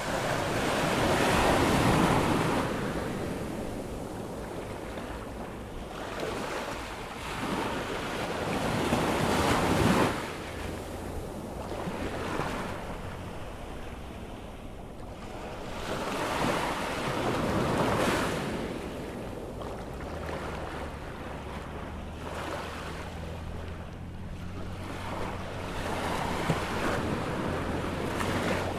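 Ocean waves breaking on a sandy beach, the surf swelling and falling away about four times as the tide comes in, with some wind on the microphone.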